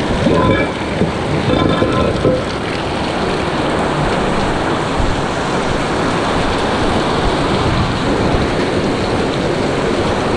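Heavy rain pouring steadily. A few short pitched sounds come through the rain in the first couple of seconds.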